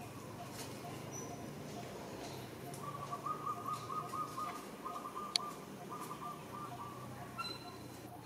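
A bird calling: a quick run of short notes on one pitch, repeated in three bursts, with a single sharp click in the middle.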